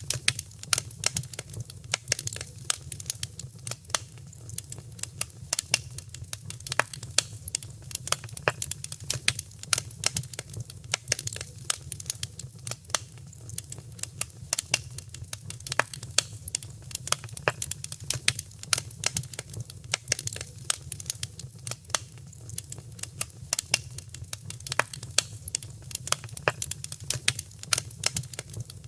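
Wood fire crackling: dense, irregular pops and snaps over a steady low rumble from the burning fire.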